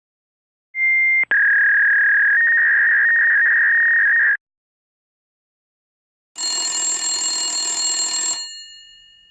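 Telephone sound effects: a short high tone broken by a click, then a steady line tone for about three seconds that cuts off abruptly. After a pause, a telephone bell rings for about two seconds and dies away.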